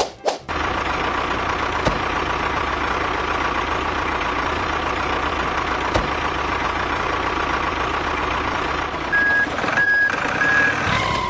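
Truck engine running steadily, with three short reversing beeps near the end.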